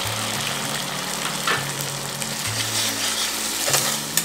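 Sliced onions and freshly added tomato purée sizzling in hot oil in a steel kadai, with a steady frying hiss. A metal spatula stirs the mix, scraping and tapping the pan a few times.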